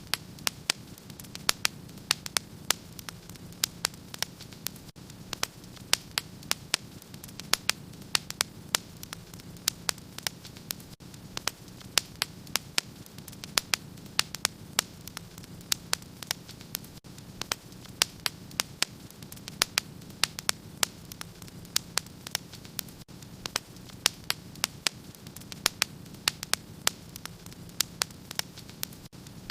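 Wood fire in a fireplace crackling: irregular sharp pops, several a second, over a steady low hiss.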